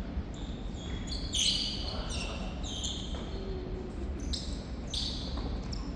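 Athletic shoes squeaking on an indoor court floor: about five short, high squeaks spread over the seconds, over a low hall rumble.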